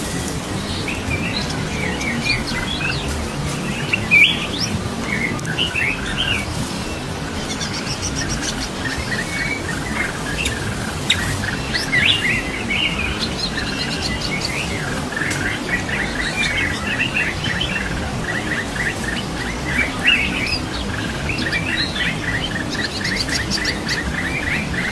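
A pair of wild prinias calling busily, with sharp chirps and short rising notes. Past the middle a fast, even run of repeated notes starts, about five a second, and carries on to the end, over a steady low background noise.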